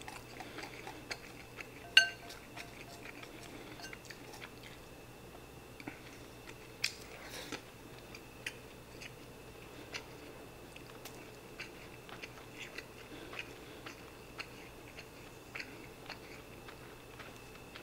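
A person chewing a mouthful of ham-and-egg rice with the mouth closed, with scattered small clicks of wooden chopsticks against a ceramic bowl; the sharpest click comes about two seconds in.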